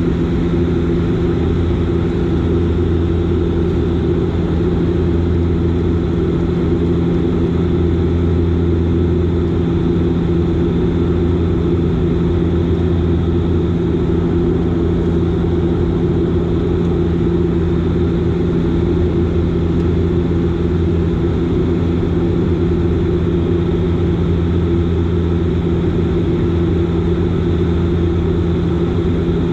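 Steady drone of a Bombardier Dash 8 Q400's Pratt & Whitney PW150A turboprops and six-bladed propellers in flight, heard from inside the cabin: an even hum with a low propeller beat and its overtones.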